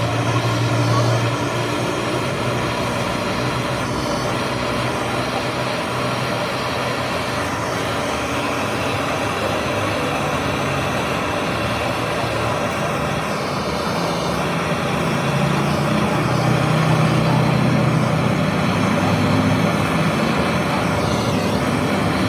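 Steady motor-vehicle engine noise with a low hum, growing louder past the middle.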